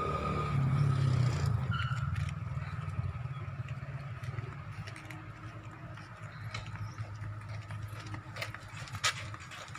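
Street ambience led by a motor vehicle's engine running close by, loudest in the first two seconds and then settling to a steady low rumble, with scattered sharp clicks and scrapes later on.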